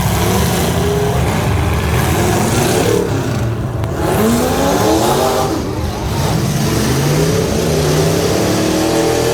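Half-ton pickup truck engine revving hard under load, its pitch climbing several times over.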